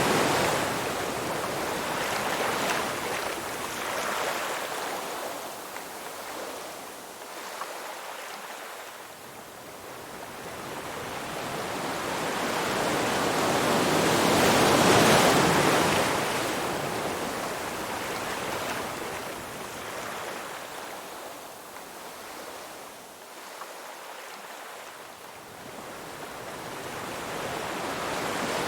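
Ocean waves washing onto a shore. The surf swells and fades slowly, about every fifteen seconds, with one wave cresting loudest about halfway through and another building near the end.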